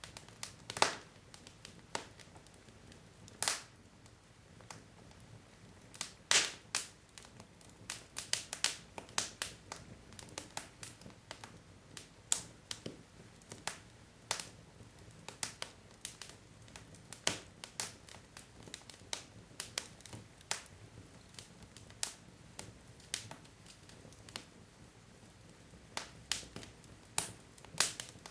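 Wood logs burning in a fireplace, crackling with irregular sharp pops and snaps over a faint low hiss of the flames.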